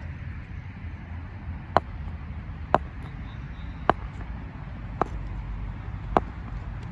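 Five sharp taps, about a second apart, over a steady low rumble of wind or distant traffic.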